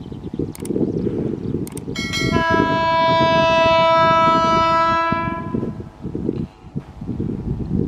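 Locomotive air horn sounding once for about three and a half seconds, starting about two seconds in and fading out, over a steady low rumble.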